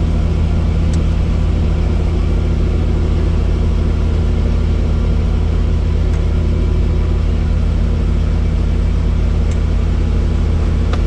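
Helicopter running: a loud, steady low drone with a deep hum, unchanging throughout.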